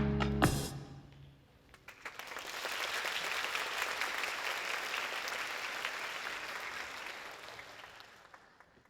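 The music ends with a final hit just after the start, then an audience applauds, swelling about two seconds in and fading away near the end.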